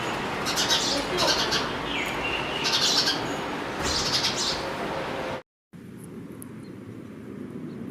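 Birds chirping in short high bursts over a dense background of noise. About five and a half seconds in the sound cuts out abruptly, then a quieter steady background with a few faint calls follows.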